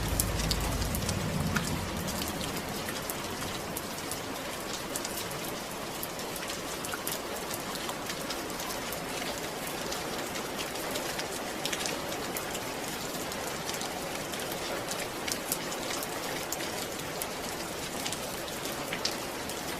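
Steady rain falling, an even hiss with many distinct drops pattering on a surface; a low rumble in the first two seconds fades away.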